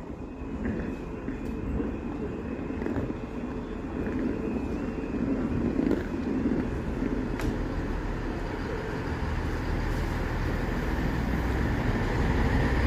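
Train pulling into a station: a steady rumble of wheels and engine, with a thin high tone in the first few seconds and a few sharp clicks, growing louder near the end.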